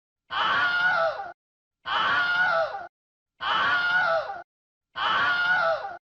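Human scream sound effect looped: the same scream, about a second long, repeated four times with half-second silent gaps, its pitch dropping at the end of each.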